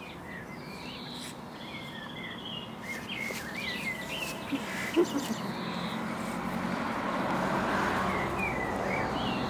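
Small birds chirping and singing in short, quick phrases, over a rushing noise that swells through the second half.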